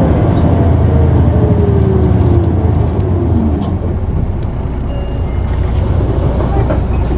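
Diesel engine of an Isuzu Erga city bus (PKG-KV234L2) heard from inside the cabin, with road noise. The engine note falls in pitch during the first few seconds as the bus eases off, then settles lower.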